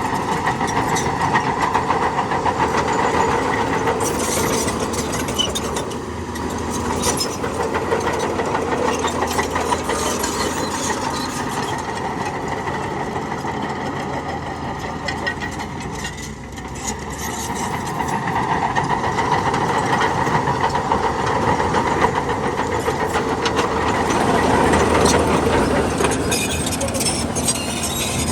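Heavy diesel earthmoving machinery running steadily, its engine level dipping briefly twice and rising again.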